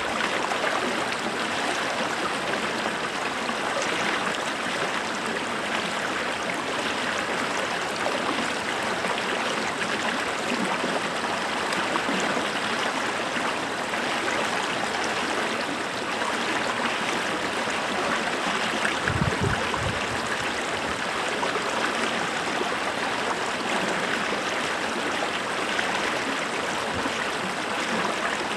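A small creek flowing steadily over stones, a continuous babbling and gurgling of water. About two-thirds of the way through there is a brief low bump.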